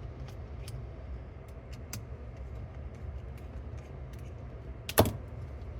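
Light scattered clicks and ticks of small parts being handled on a cassette deck's tape transport mechanism, with one sharper click about five seconds in, over a steady low hum.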